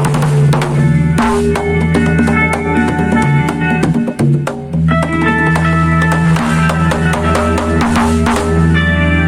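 Band playing with drum kit, bass and electric guitar, with a brief break about four seconds in before the band comes back in.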